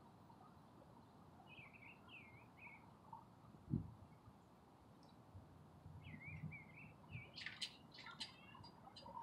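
Faint small birds chirping: two runs of short twittering notes, then a quicker cluster of sharper chirps near the end. A single dull thump about four seconds in.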